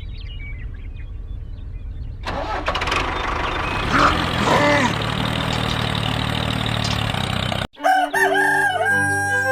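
A rooster crows about four seconds in, over a steady low engine-like hum and a rushing noise. The sound then cuts off abruptly near the end and music with held notes takes over.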